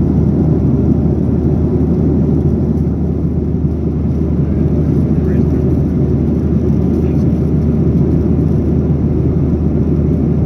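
Steady low rumble of cabin noise inside a Boeing 737-800 airliner, from its engines and the airflow.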